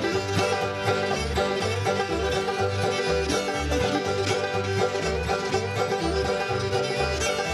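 Old-time string band playing an instrumental fiddle tune at a steady, brisk beat, with banjo and fiddle over guitar and bass notes.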